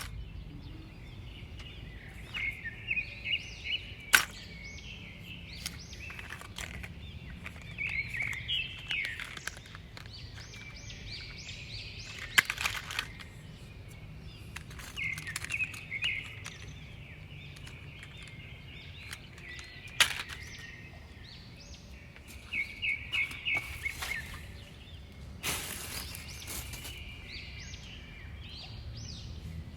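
Small birds chirping and singing in short repeated trills over a steady low background noise, with a few sharp clicks or knocks spread through it.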